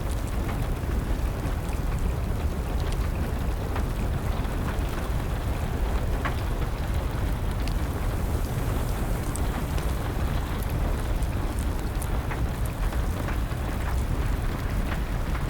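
Steady rain hiss mixed with a crackling fire: scattered sharp pops and snaps over a constant noise bed with a low rumble.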